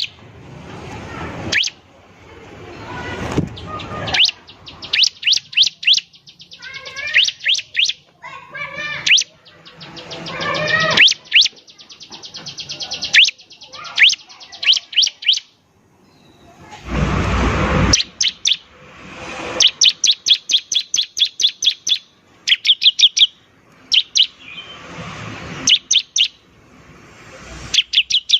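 Bar-winged prinia (ciblek) singing hard. Rapid runs of high, sharply repeated chip notes and fast trills are broken several times by harsh, raspy buzzing notes, the longest about seventeen seconds in.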